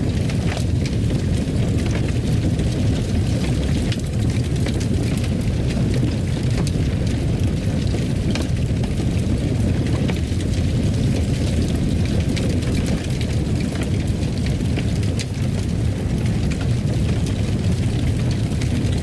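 Wood fire crackling in a fireplace: a steady low rumble of burning with many small, sharp pops scattered throughout.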